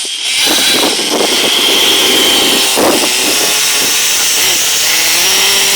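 Radio-controlled CEN truck's motor running at speed, a loud, steady, high-pitched whine with a faintly wavering tone.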